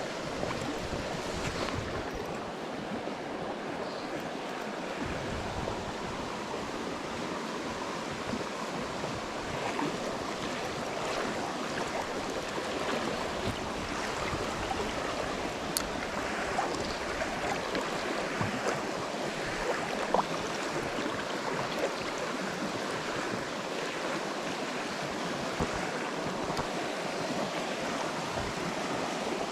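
Steady rush of flowing stream water, with a few faint ticks and knocks.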